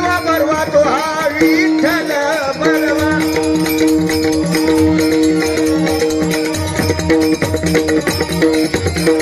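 Live Marathi bhajan music. A male singer's wavering, ornamented line is heard for the first three seconds or so. The instruments then carry on alone: steady held tones, a regular drum beat and jingling rattle-like percussion.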